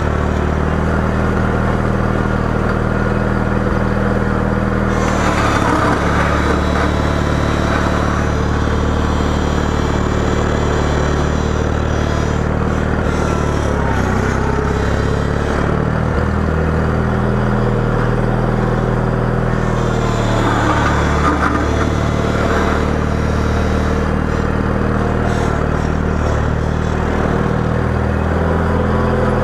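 John Deere 318 garden tractor engine running steadily while plowing snow. Its pitch dips and shifts a few times as the load on the plow changes.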